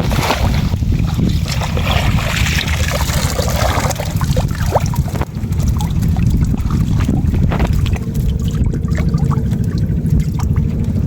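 Wind buffeting the microphone as a low rumble, over water splashing and trickling, with a hissing wash in the first few seconds and scattered small splashes and drips after it.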